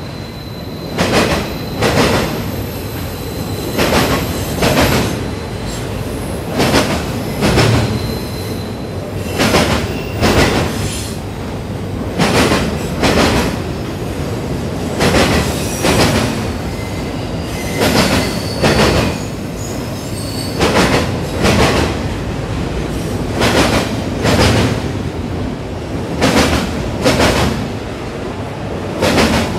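Freight train of autorack cars rolling past, with a steady rumble and the wheels clicking over rail joints in pairs every couple of seconds. A faint thin squeal sounds in the first several seconds.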